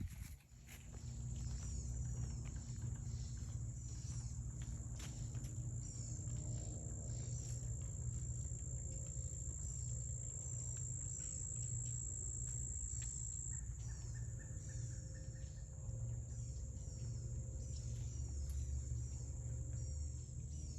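An insect trilling at one steady high pitch, which stops about two-thirds of the way through, with short chirps scattered over it and a steady low rumble underneath.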